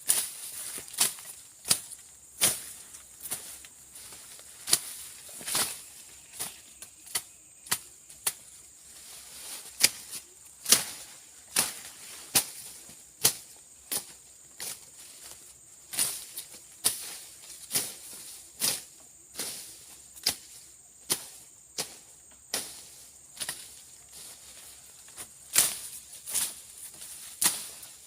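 Machete or bush knife slashing through brush and undergrowth, making sharp chopping strokes about once a second, some harder than others, with a faint steady high-pitched buzz underneath.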